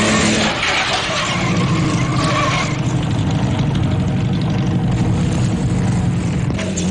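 Early racing car's engine running at speed, a steady deep drone. A higher wavering sound runs over it for the first two and a half seconds, then stops.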